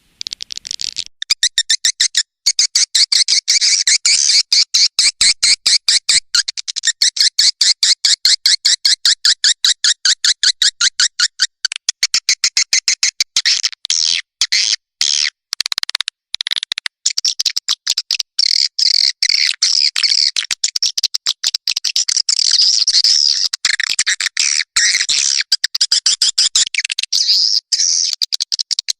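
Swiftlet call recording of the kind played to lure swiftlets into a nesting house: a rapid, steady train of high twittering chirps, about four or five a second, with a few short breaks.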